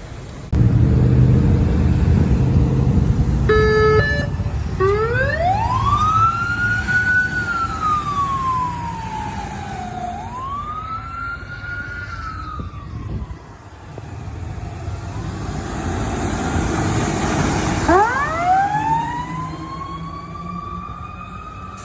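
Fire engine responding with its siren: a heavy engine rumble comes up about half a second in, a short horn blast sounds around four seconds, then the siren winds up to a high wail, slowly falls, winds up again and falls, and winds up once more near the end.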